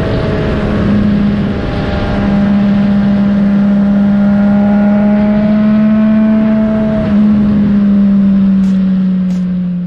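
Triumph Street Triple 765 RS inline-three engine through a Yoshimura AT2 exhaust, running under way at a steady high note. Its pitch dips briefly about one and two seconds in, and near the end it slowly falls as the bike eases off.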